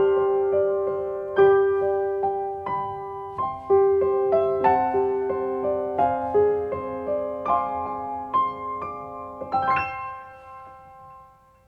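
Background piano music: a gentle melody of struck notes that ends on a chord about ten seconds in, which rings and fades away.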